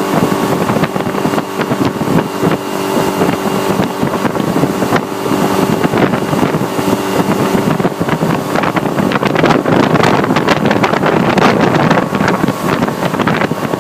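Motorboat engine running steadily under way, with wind on the microphone. The wind noise turns rougher and crackly in the second half.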